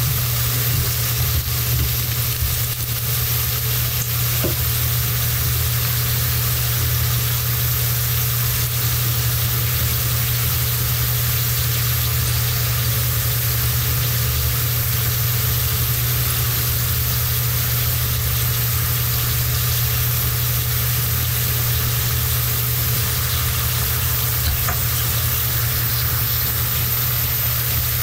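Sliced sweet potatoes frying in hot oil in a pan: a steady sizzle that does not let up, over a steady low hum.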